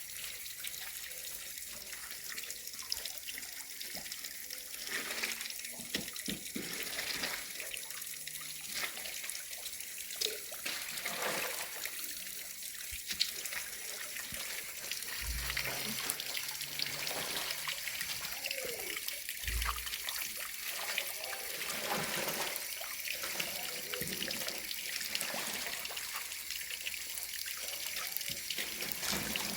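Running water trickling steadily, with small splashes and two dull knocks partway through.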